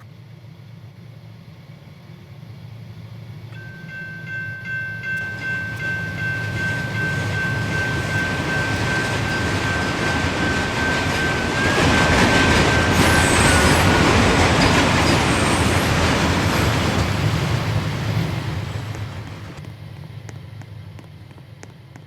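Norfolk Southern freight train passing: a low diesel rumble and rolling noise build to a peak a little past halfway, then fade near the end. A steady high whine comes in a few seconds in and drops slightly in pitch as the train goes by.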